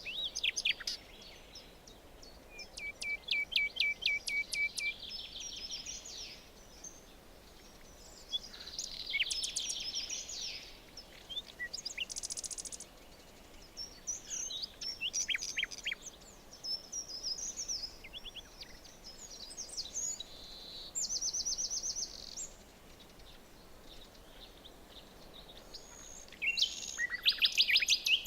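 Several songbirds singing in a forest: short phrases and rapid trills, one after another, over a faint steady background hiss.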